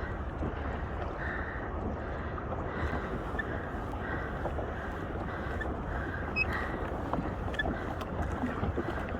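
Wind buffeting the microphone over water sloshing around a fishing kayak as it is paddled, with soft paddle splashes recurring at an even pace.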